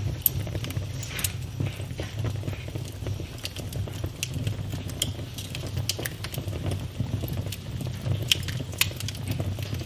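Wood fire burning in a fireplace, crackling: irregular sharp pops and snaps over a steady low rumble of the flames, with a couple of louder pops near the start and near the end.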